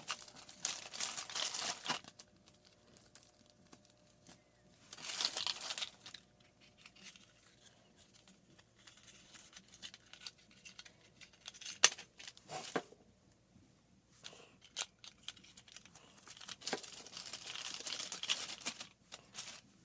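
Plastic packaging crinkling and tearing in several bursts, with a few sharp clicks in the middle, typical of a replacement parts kit being unwrapped.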